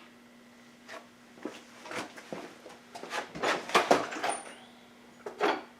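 Irregular clinks, knocks and scrapes of metal parts and tools being worked by hand on a workbench, as a worn suspension part is worked loose.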